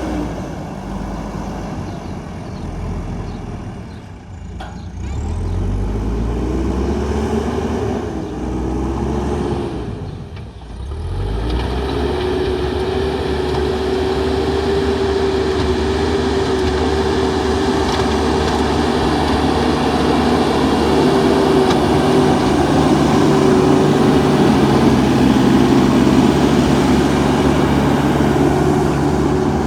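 JCB backhoe loader's diesel engine running as the machine works, its pitch rising and falling in the first half, then holding steady and a little louder from about twelve seconds in.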